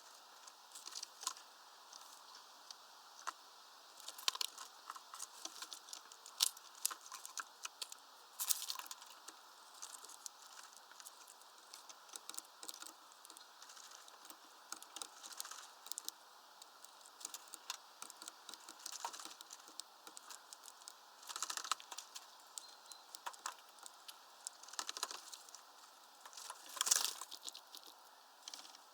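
Irregular taps, clicks and rustles at a bird feeder, the kind made by birds pecking at seed and scrabbling on the feeder, with a louder rustle near the end.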